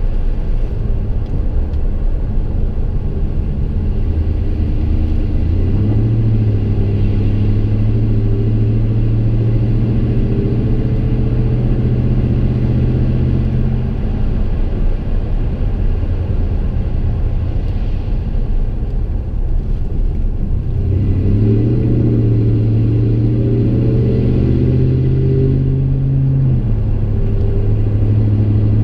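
Chevy Silverado's 5.3L V8 exhaust through Kooks long-tube headers and a Gibson M.W.A muffler, heard from inside the cab while driving: a steady low drone. It swells twice, from about six seconds in and again past twenty seconds, and near the end drops a little in pitch.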